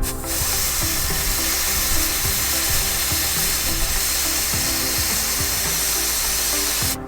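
Air hissing out of a pickup truck tire's valve stem as the valve core is held open to air down for off-roading. A steady hiss that breaks off for a moment at the start, then runs on and cuts off suddenly near the end.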